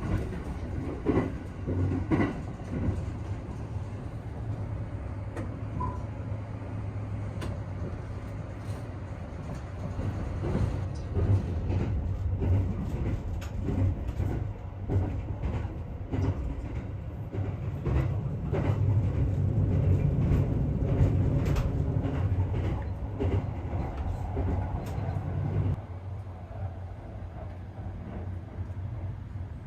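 A passenger train running on the rails: a steady low rumble with scattered clicks and knocks. It grows louder about two-thirds of the way through, then eases off near the end.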